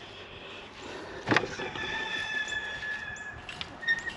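A knock, then a chicken-run door or gate squealing on its hinge for almost two seconds as it is shut, with a short squeak near the end.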